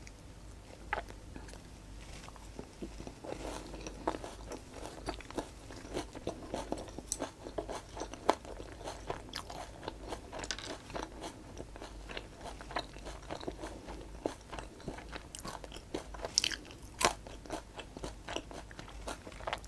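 Close-miked chewing of a seaweed-wrapped sushi veggie popiah roll, with many small crunches throughout and a few louder crunches near the end.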